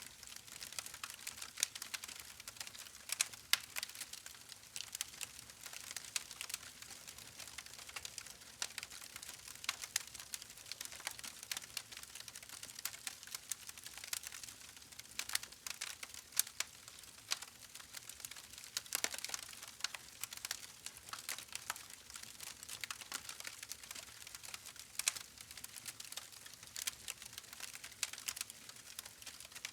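Wood campfire burning: a steady stream of irregular crackles and small pops over a soft hiss.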